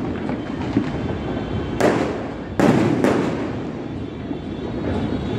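Many fireworks going off at once across a city: a continuous din of explosions, with three sharper bangs about two to three seconds in.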